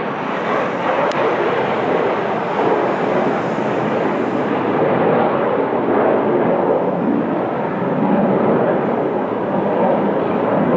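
Tremendous, steady jet engine noise from a US Air Force F-15 fighter taking off. The thinner hiss on top fades about halfway through while the main noise carries on.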